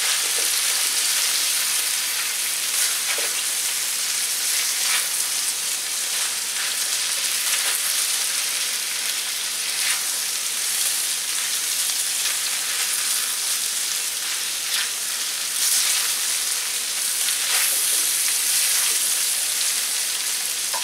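Chicken breast pieces, onion and diced potatoes frying in oil in a large skillet, a steady high sizzle as the potatoes brown. A spatula stirs them now and then, adding faint scrapes against the pan.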